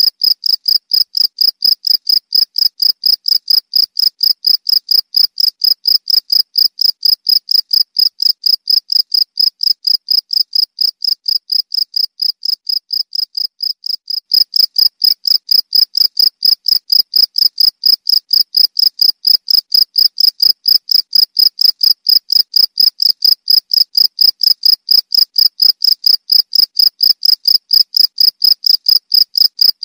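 Cricket chirping continuously in a rapid, even pulse train, high-pitched and loud.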